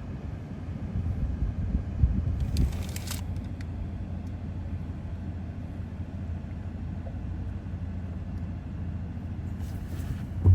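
Steady low rumble of a car on the move, engine and road noise, with a brief rattle about two and a half seconds in.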